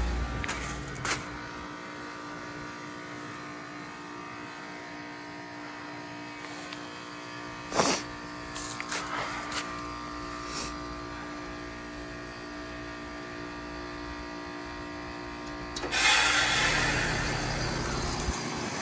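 A Bryant Legacy Line 2-ton heat pump running through a defrost cycle, its compressor humming steadily, with a single knock about halfway through. Near the end a sudden loud whoosh of refrigerant starts and fades over a couple of seconds, typical of the reversing valve shifting over as defrost ends.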